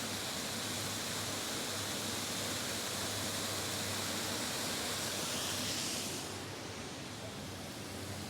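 Steady rushing of flowing water, a even hiss with a low rumble under it; the hiss turns duller and a little quieter about six seconds in.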